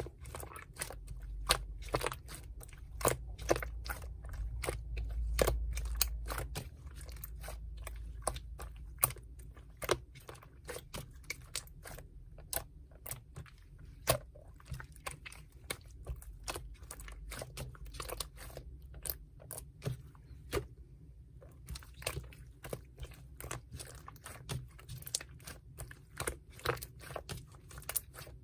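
Slime being squeezed and pressed by hand, making many irregular sharp clicks and crackles as air pockets pop. A low rumble of handling noise sits under the first few seconds, and there is a brief pause about two-thirds of the way through.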